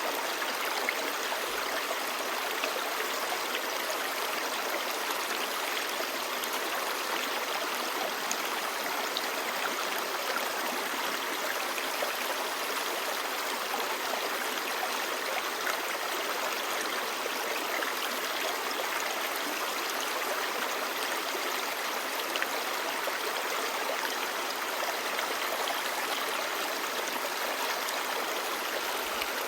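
Clear mountain stream babbling over rocks: a steady rush of water with small splashes and gurgles.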